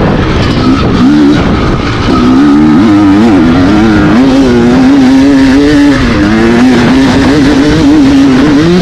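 Enduro dirt-bike engine running hard, its pitch rising and falling continuously as the throttle is worked.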